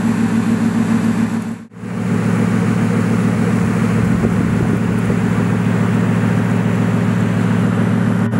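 Bugatti Veyron Super Sport's quad-turbo W16 engine idling steadily, with a brief dropout in the sound just under two seconds in.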